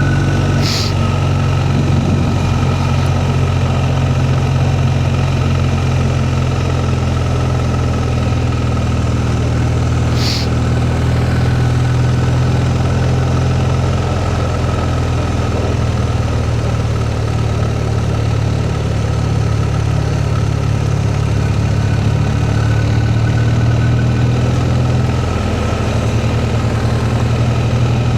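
BMW R1250R's boxer-twin engine running steadily at low revs in second gear on a slow, steep climb; third gear makes it splutter. Two brief high ticks sound about a second in and again about ten seconds in.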